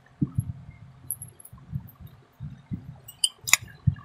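Chewing and mouth sounds of people eating puffed rice and fried fritters: irregular soft low thumps, with one sharp clink near the end.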